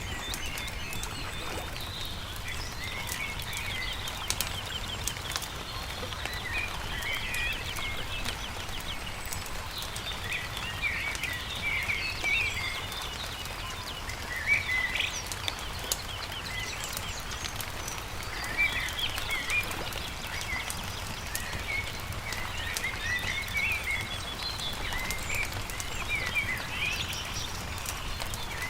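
Several small songbirds chirping and trilling on and off over the crackle of a campfire, which gives scattered small sharp pops. A low steady rumble runs underneath.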